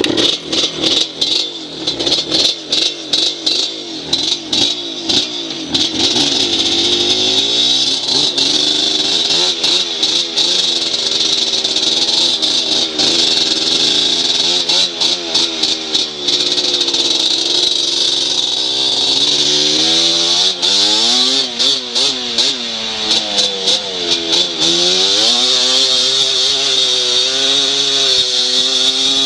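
Dirt bike engine revving, its pitch rising and falling over and over as the throttle is worked, with rattling clicks from the machine.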